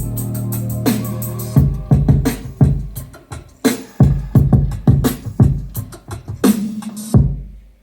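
Music with a punchy drum beat and strong bass, played through a homemade Bluetooth speaker with 5-inch woofers as a sound test. The music drops out briefly near the end.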